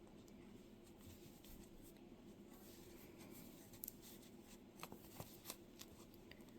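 Near silence with faint rustling and a few light clicks of a crochet hook working yarn through stitches.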